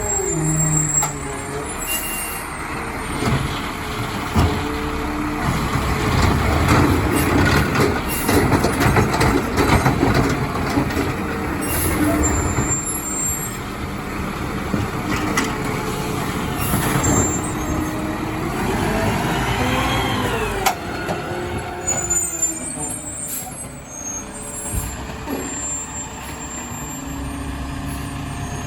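Mack LR garbage truck with a McNeilus ZR automated side-loader body running and working: engine noise with air-brake hisses, repeated knocks and clanks, and a rising then falling whine about two-thirds of the way through.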